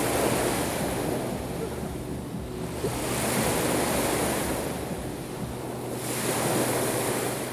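Black Sea waves breaking on the shore, the hiss of the surf swelling and ebbing three times about three seconds apart, over a low rumble of wind on the microphone.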